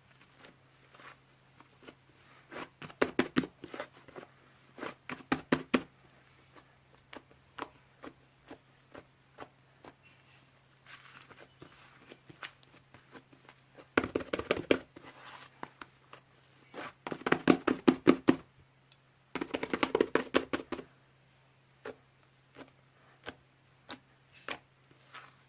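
Slime being squeezed and pressed by hand, making bursts of rapid wet clicks and pops, with single pops between the bursts. A faint steady hum runs underneath.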